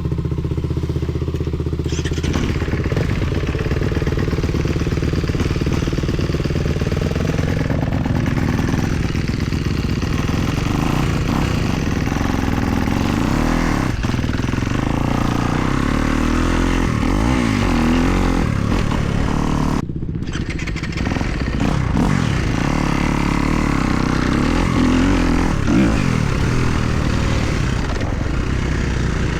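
2024 Kawasaki KX250's four-stroke single-cylinder engine being ridden, revving up and down as the throttle is worked, with a short break in the engine sound about twenty seconds in.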